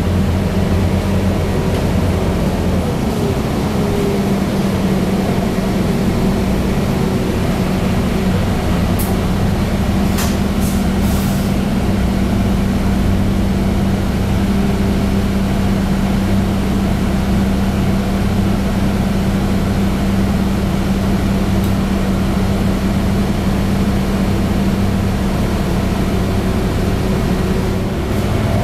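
Scania double-decker bus engine and drivetrain running as the bus drives along, heard from inside the passenger cabin as a steady low drone. A few faint clicks come about ten seconds in.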